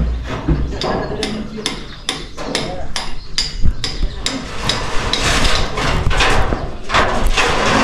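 Hammer blows in quick, irregular succession, as in nailing down roofing.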